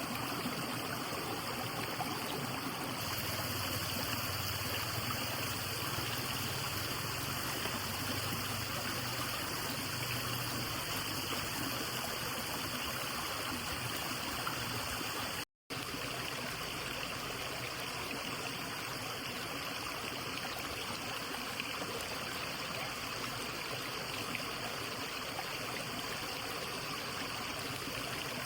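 Steady rush of running water from a stream, cutting out for an instant about halfway through.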